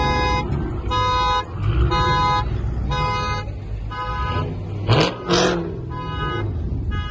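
A car alarm sounding a horn in pulses about once a second, each pulse about half a second long, over the low rumble of idling engines. About five seconds in, two short loud bursts of noise cut across it.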